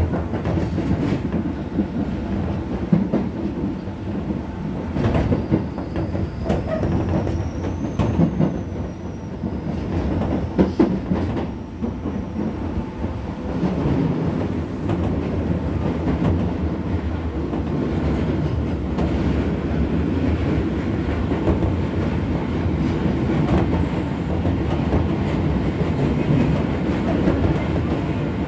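Keisei 3400 series electric train running, recorded on board: a steady rumble of wheels and running gear, with rail-joint clacks. A faint high squeal rises and falls briefly between about five and nine seconds in.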